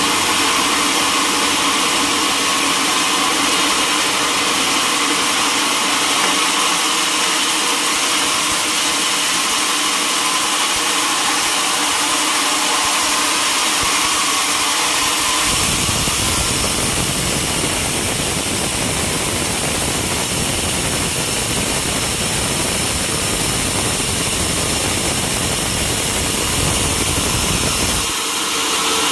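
Sawmill machinery running with a steady mechanical hum. About halfway through a heavy low rumble joins it and holds for over ten seconds, then stops shortly before the end.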